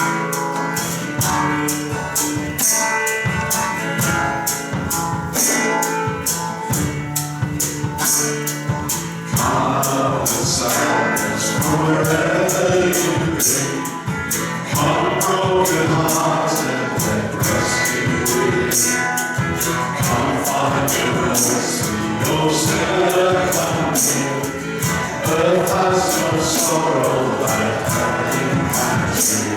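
Worship band playing a gospel-style song, with a steady high percussion beat of several strokes a second, like a tambourine, over sustained chords; a sung melody line comes in about ten seconds in.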